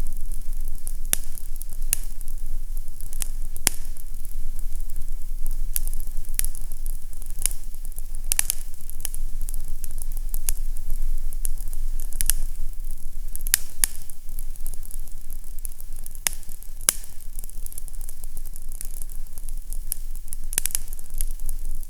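Fireplace fire crackling, with irregular sharp pops a few times a second over a low steady rumble.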